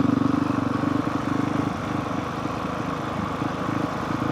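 Honda CRF450R's single-cylinder four-stroke engine running while riding, a steady note that eases off about two seconds in.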